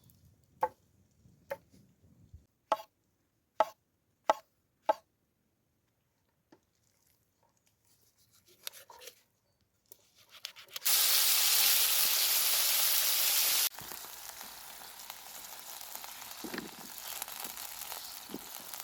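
About seven sharp knocks in the first five seconds, then chicken sizzling over a wood fire: loud for about three seconds, then quieter after an abrupt cut.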